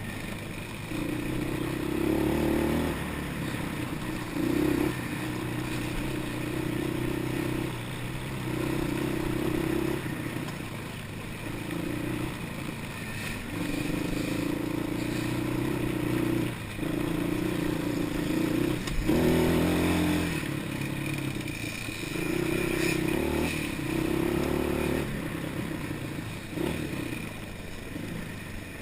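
Quad bike engine revving in repeated bursts, the throttle opened and eased off every one to three seconds.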